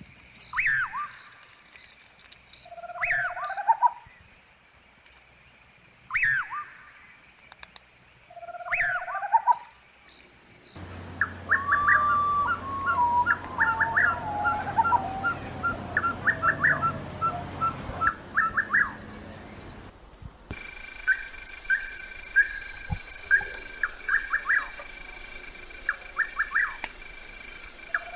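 Wild birds calling. A two-part call repeats about every three seconds, then changes abruptly to a run of quick chirps with a falling whistle. Near the end, a steady high insect drone joins the chirping.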